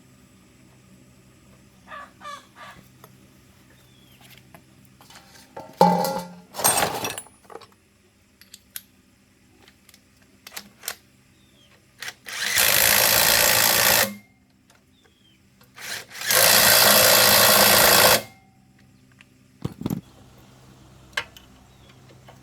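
A tool running in two short bursts of loud, even noise, each about two seconds long, a few seconds apart, during diesel engine repair work. A few knocks and clicks come before them.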